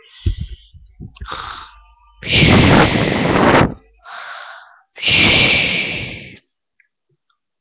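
Loud breathy blowing or breathing close to the microphone, two long noisy breaths with a shorter, softer one between them.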